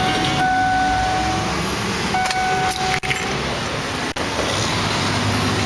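Ignition keys jangling in a 1996 Ford Bronco that has just been shut off. A steady tone sounds for about a second and a half at the start and then briefly again, over traffic noise.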